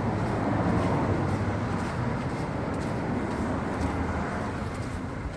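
Road traffic noise, a motor vehicle going by with a low rumble, fading toward the end.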